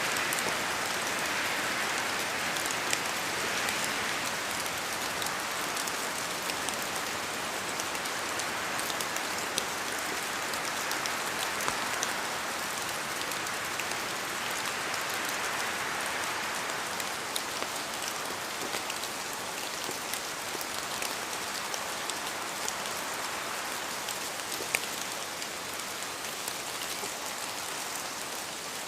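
Steady rain falling in a forest, a dense even patter with many separate drops ticking on surfaces and slow swells in strength.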